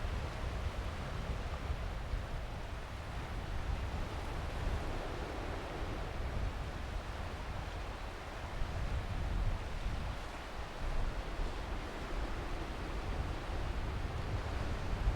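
Waves washing onto the beach, a steady rushing hiss, with wind rumbling on the microphone underneath.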